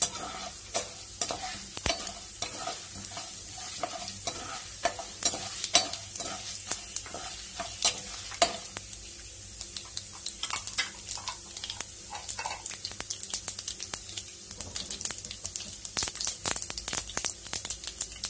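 Mustard seeds, urad dal and chana dal frying in hot oil in a nonstick pan: a steady sizzle with many sharp crackles and pops. A spatula stirs and scrapes the pan through the first half, and the crackling comes thicker near the end.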